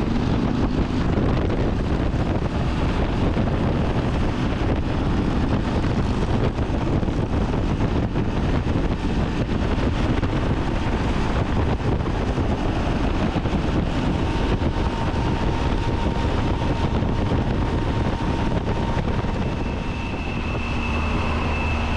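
Riding noise of a Triumph Tiger 800 XCA motorcycle at freeway speed: steady wind rushing over the camera microphone, mixed with engine and road noise. A faint high whine comes in near the end.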